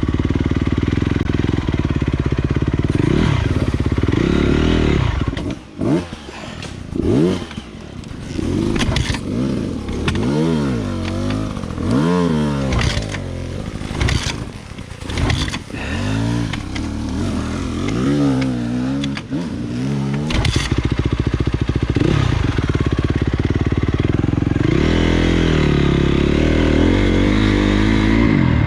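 Honda CRF250 dirt bike's single-cylinder four-stroke engine running under way. From about five seconds in it revs up and eases off again and again in quick rises and falls of pitch, then holds a steadier note near the end.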